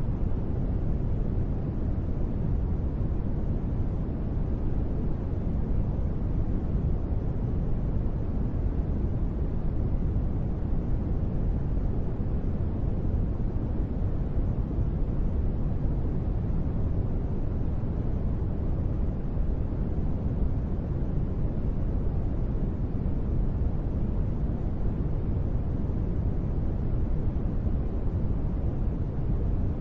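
Steady, gentle rain noise with no thunder, a deep and even rush with no drops or changes standing out.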